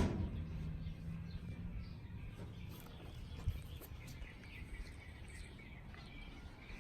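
Faint birds chirping over a low rumble of background noise, with one sharp click right at the start.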